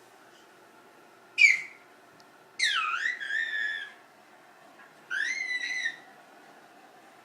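Pet bird giving three whistled calls, which the owner calls laughing: a short, loud downward sweep, then a longer call that swoops down and levels off, then one that rises and holds.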